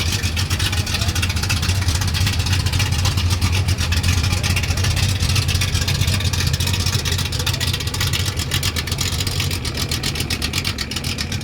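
Ford Mustang's engine running with a steady low exhaust rumble.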